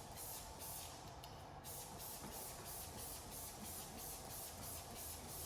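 Trigger spray bottle squirting acid wheel cleaner onto wheels in quick repeated hissy squirts, about three a second, with a short break a little over a second in.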